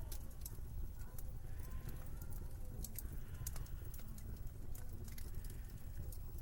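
Winter ambience: a steady low wind rumble with irregular sharp clicks and crackles scattered through it.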